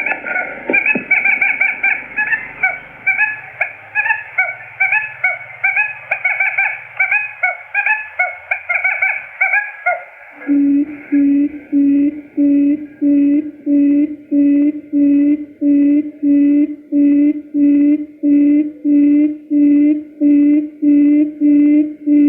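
Recorded quail lure calls, played to draw quail into a trap. For about ten seconds there is a rapid chattering of high calls; then, from about ten seconds in, a steady series of low pulsed hoots comes just under two a second, with high notes over each.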